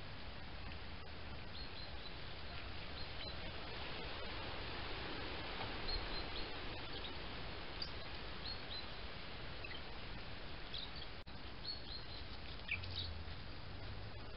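Scattered short, high bird chirps over a steady hiss from the trail camera's microphone, with one sharp click about eleven seconds in.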